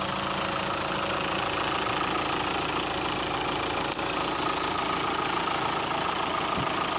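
VW Jetta engine idling steadily.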